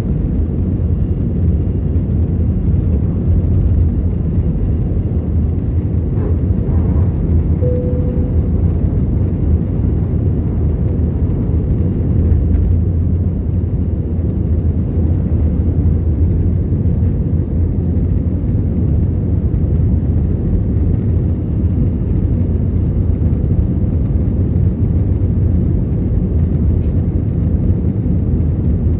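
Airbus A321-211's two CFM56 turbofan engines running at takeoff thrust during the initial climb, heard inside the cabin as a loud, steady low rumble. A brief faint tone sounds about eight seconds in.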